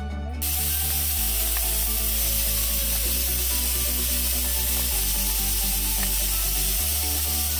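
Steady sizzling hiss of food frying in hot oil, starting abruptly about half a second in, over background music with a slow, stepping bass line.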